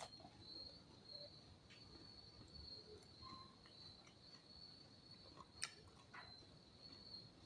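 Faint, steady high chirring of crickets in the background. A few soft ticks and one sharp click about five and a half seconds in.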